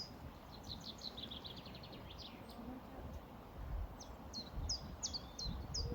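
Songbirds chirping: a quick descending trill about a second in, then a run of sharp, repeated down-slurred notes in the second half, over a low, uneven rumble.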